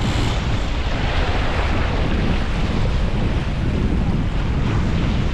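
Wind buffeting the microphone, steady and heavy in the low end, over water rushing along the hull of a sailing yacht under way.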